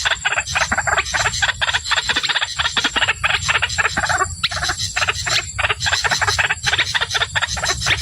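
White-breasted waterhen calling: a rapid, unbroken run of short harsh croaking notes, several a second.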